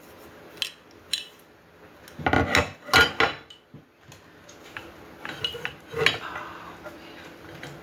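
Metal grill parts clinking and clanking as they are handled and fitted together during assembly: scattered knocks, with a run of louder clanks around two to three and a half seconds in.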